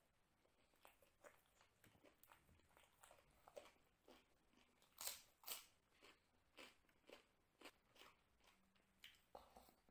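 Close-up mouth sounds of chewing and crunching: a series of short, crisp crunches from biting a raw salad vegetable slice, loudest about five seconds in.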